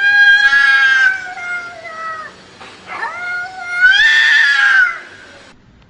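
A domestic cat yowling: two long drawn-out calls, the second starting about three seconds in.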